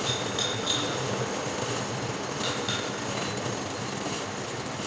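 Metal lathe running with a steady mechanical rumble, with a few brief high-pitched tones near the start and again about two and a half seconds in.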